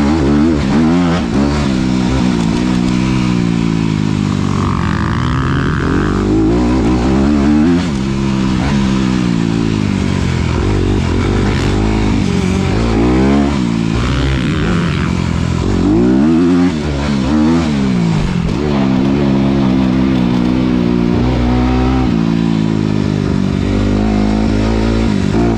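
A 2019 Honda CRF250RX's single-cylinder four-stroke engine, revving up and backing off again and again as the dirt bike is ridden hard, its pitch rising under throttle and dropping between.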